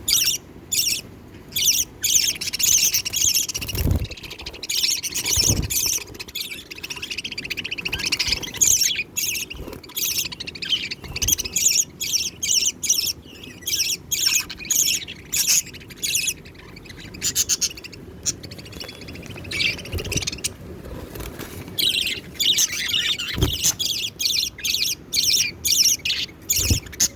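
Budgies chirping and squawking in a rapid, high-pitched chatter of short calls while the father budgie feeds his chicks, with a few dull low thumps.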